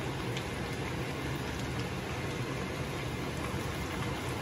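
Chicken pieces frying in oil in a pan over a gas burner: a steady sizzle.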